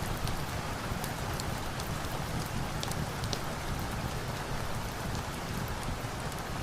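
Steady rain, with a low rumble beneath and scattered sharp ticks.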